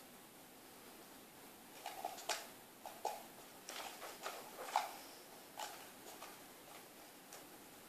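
Irregular light clicks and knocks, about a dozen over a few seconds and loudest in the middle, from someone eating out of a bowl.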